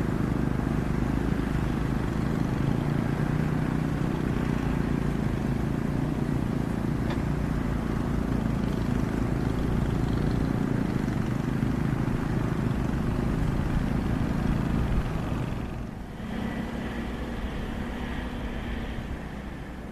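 Komatsu hydraulic excavator's diesel engine running steadily under work. About three-quarters of the way through it briefly dips, then carries on quieter with a different, higher-edged note.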